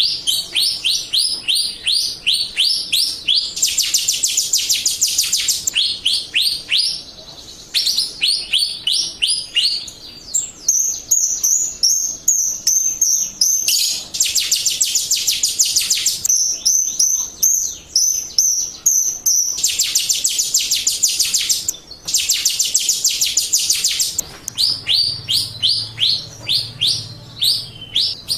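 Jalak Rio starling singing, as a lure recording for kept birds: rapid trills of high, down-slurred notes, about ten a second, in bouts of one to three seconds separated by short pauses.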